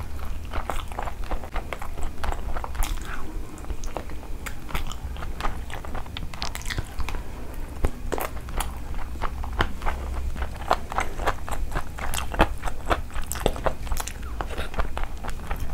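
Close-miked eating sounds of a person chewing rice and curry taken by hand: irregular wet smacks, clicks and some crunching, over a steady low hum.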